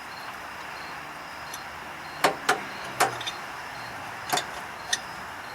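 A few sharp metal clicks and clinks of a wrench and bolts being handled while bolting up a truck's hydraulic PTO pump: three close together a couple of seconds in, then two more, over a steady faint hiss.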